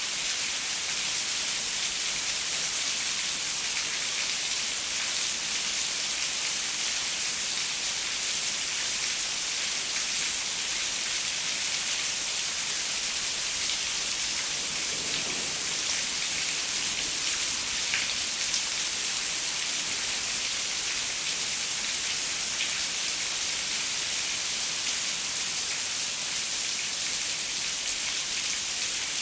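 Steady rain falling on a window pane: an even, dense hiss with scattered individual drops ticking.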